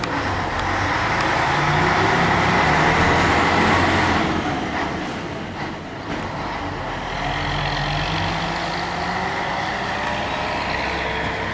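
Scania 112H truck's six-cylinder diesel engine running under load, its note climbing, dipping briefly about five seconds in, then climbing again, as with a gear change while driving.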